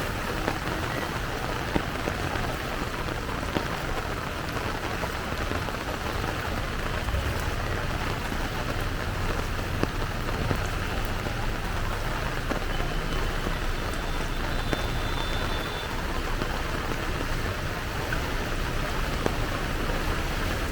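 Heavy downpour of rain falling steadily, an even hiss with scattered drop ticks.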